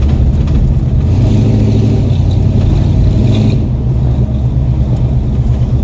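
A 1978 truck's engine running loud through its exhaust, revving up about a second in and easing back after a couple of seconds.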